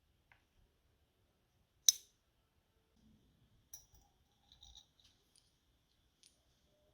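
A sharp metallic click about two seconds in, followed by a few faint taps and clinks: small carburetor parts being handled and fitted on a workbench.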